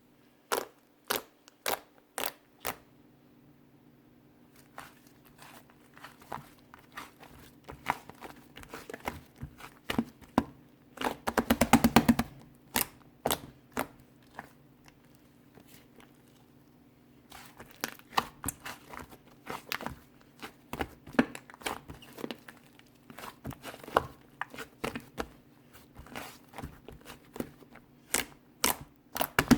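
Clay slime being squished and pressed by hands, making scattered sharp clicks and pops, with a quick run of crackling pops about eleven seconds in. A faint steady hum runs underneath.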